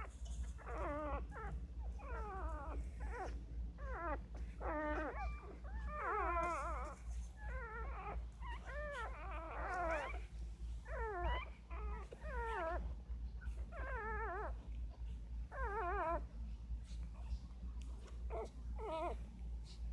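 Newborn nursing litter crying: a run of short, high, wavering squeals and whimpers, each under a second, repeating one after another with a brief pause near the end.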